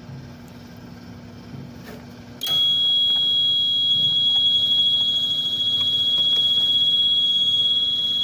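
A low steady hum, then about two and a half seconds in a loud, steady high-pitched electronic beep starts abruptly and holds without a break.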